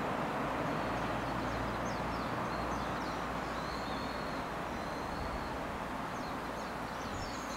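Fading rumble of a receding JNR 115 series electric train, growing slowly fainter down the line. Birds chirp over it in short high notes, with one longer whistled note in the middle.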